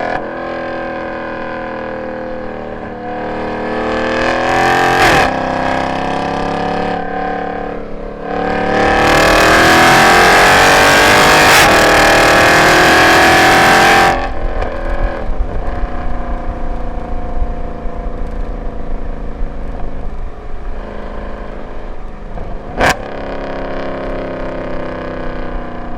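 Mercedes C63 AMG's M156 6.2-litre V8, with long-tube headers, x-pipe and no catalytic converters, running hard on a track. A loud full-throttle pull with rising pitch starts about a third of the way in and cuts off sharply just past halfway, followed by an uneven off-throttle note. Brief sharp cracks come about five seconds in and near the end.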